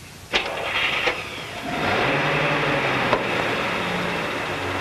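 An early car's engine running steadily, after a sharp click about a third of a second in.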